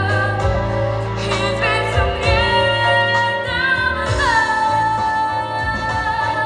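Female solo voice singing a pop ballad over a backing track with a steady bass line. A little past halfway the voice slides down into one long held note.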